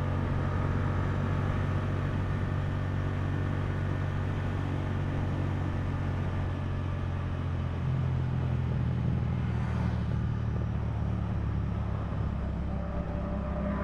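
Motorcycle engine running steadily while riding, with a low drone under a steady rush of wind and road noise. The engine note rises a little about eight seconds in.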